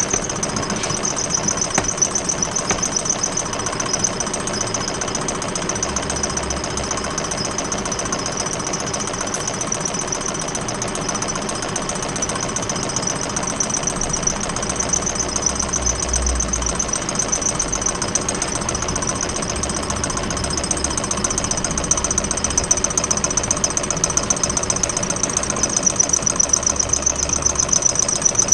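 Small standing-wave thermoacoustic engine running steadily: a fast, even mechanical chatter that grows a little louder in the last few seconds.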